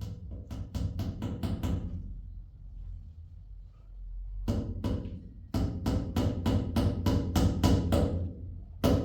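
Rapid hammer blows, about five a second, in runs of a second or more with short pauses between them.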